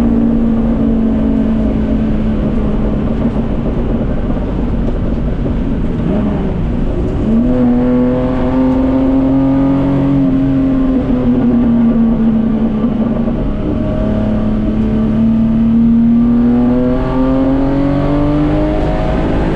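Group C Datsun 240K race car engine heard from inside the car under load. Its pitch dips about six seconds in, as on a lift or gear change, then climbs again and rises once more near the end, over a steady wash of road noise.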